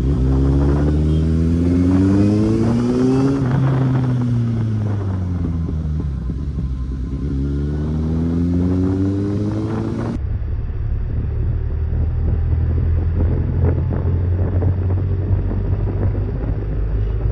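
Kawasaki Z800's inline-four engine rising in pitch as the bike accelerates, easing off, then rising again. About ten seconds in, the sound switches abruptly to a steadier, duller engine drone.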